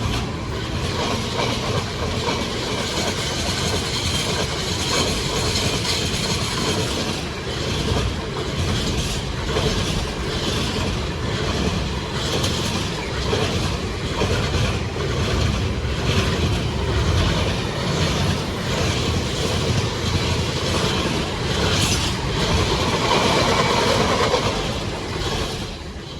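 A train running past close by for over twenty seconds, its wheels clicking over the rail joints again and again.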